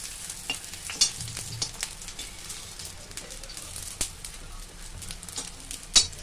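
Besan pakoras sizzling steadily in hot oil in a metal kadai, while a perforated steel slotted spoon stirs and turns them, clinking and scraping against the pan several times. The sharpest clinks come about a second in and near the end.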